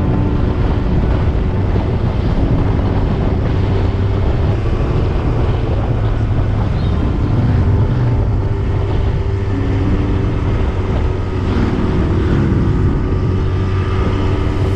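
Yamaha YZF-R1 inline-four sport-bike engine running under way, its pitch shifting a few times, with wind rushing over the microphone.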